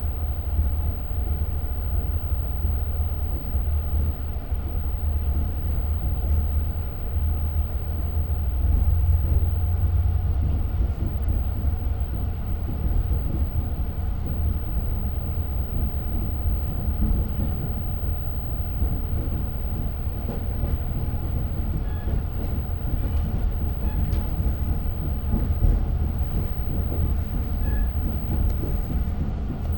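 Long Island Rail Road diesel-hauled passenger train running between stations, heard from inside the passenger car: a steady low rumble, with faint clicks in the second half.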